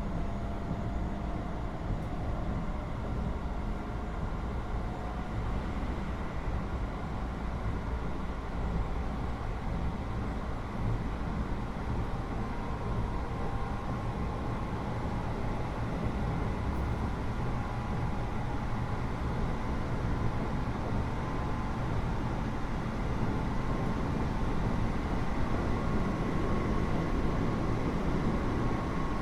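Keio 8000 series electric train running at speed, heard inside the carriage above its GTO-VVVF main controller: a steady low rumble of wheels and running gear, with faint steady whine tones from the motors and inverter, growing a little louder near the end.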